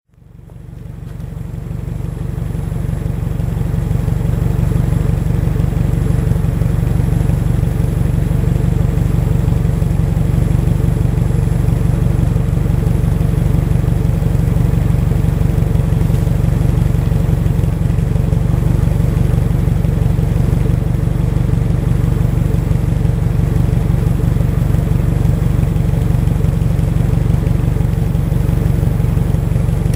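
Subaru Impreza WRX STI spec C's turbocharged flat-four engine idling steadily, a deep low rumble that fades in over the first few seconds.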